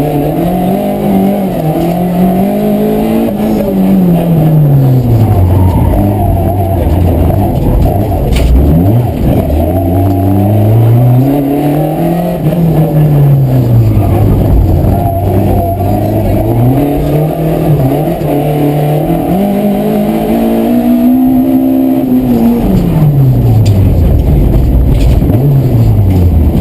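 Rally car engine running hard and continuously. Its pitch climbs and drops back four or five times as the car accelerates and slows through the stage.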